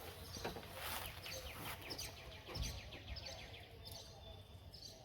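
Songbirds chirping, with a rapid trill of quick repeated notes in the middle, over a low outdoor rumble.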